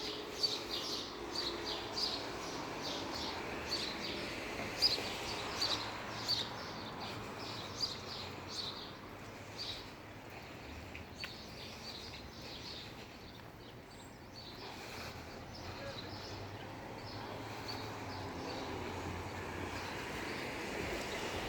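Small birds chirping, many short high chirps in quick succession over a steady background hum; the chirping thins out about halfway through.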